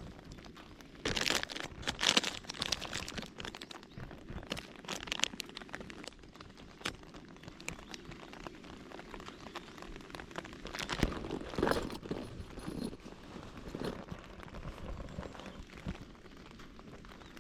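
Irregular crinkling and crunching of a plastic snack packet being handled, in clusters about a second in and again about eleven seconds in.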